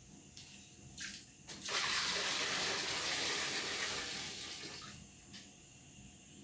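A hissing spray, like water or an aerosol jet, runs for about three seconds from a little under two seconds in and tails off. A couple of light clicks come just before it.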